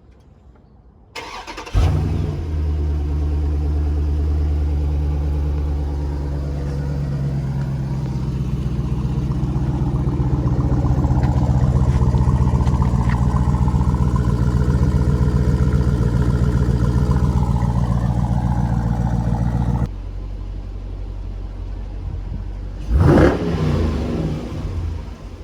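Dodge Durango SRT 392's 6.4-litre HEMI V8 on its stock exhaust, mid muffler still fitted, being started: a brief crank, then it fires about two seconds in and settles into a loud, steady high idle. The sound drops to a quieter idle about twenty seconds in, and there is one short, sharp rev near the end.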